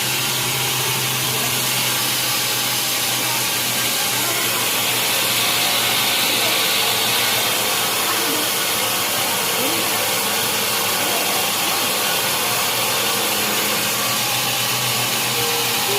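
Sawmill machinery running steadily: an even mechanical noise with a low hum underneath.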